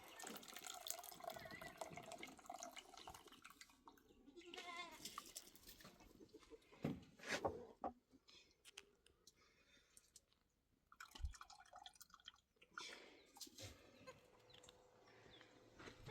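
Faint scattered clicks and drips, with a short, wavering livestock bleat heard faintly about four to five seconds in.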